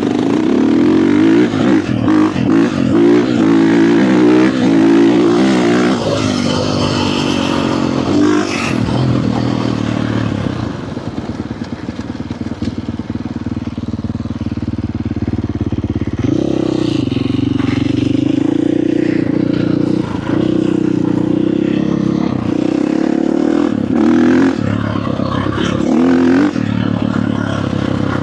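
Dirt bike engine revving and running under throttle, its pitch climbing and falling repeatedly at first. It eases off to a lower, quieter note for a few seconds, then runs at a steadier high note broken by a few brief throttle cuts.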